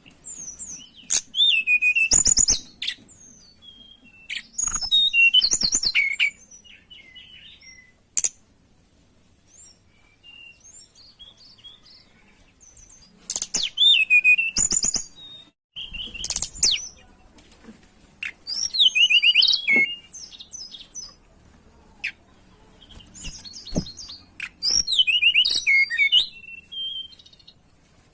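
Tledekan gunung singing: bursts of quick, varied high-pitched whistles and trills, about six phrases separated by short pauses. This is a lure song of the kind used to draw out other birds.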